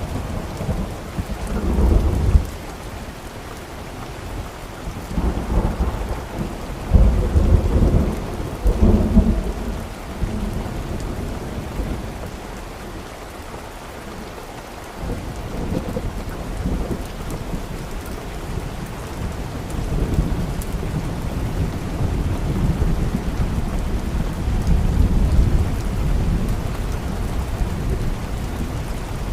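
Steady rain with rolls of thunder: deep rumbles swell and fade about two seconds in, more strongly from about five to ten seconds in, and again as longer, lower swells in the second half.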